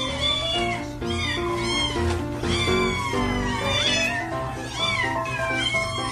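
A cat meowing over and over, many short rising-and-falling meows, over background music with a steady bass line.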